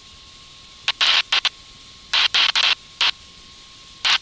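Helicopter headset intercom audio: a steady hiss with a faint steady tone, broken every half second or so by short bursts of louder hiss.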